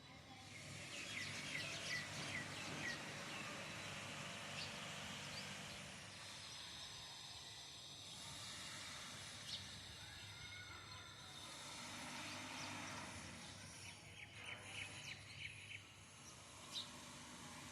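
Garden birds chirping: a quick run of short high chirps about a second in, scattered single notes, and another run near the end, over a steady low background noise.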